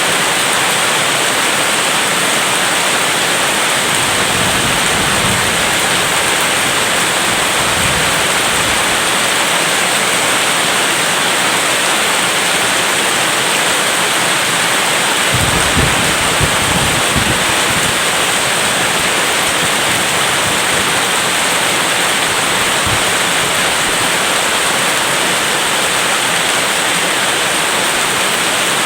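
Steady rain with low rolls of thunder, a soft one a few seconds in and a stronger one about fifteen to seventeen seconds in.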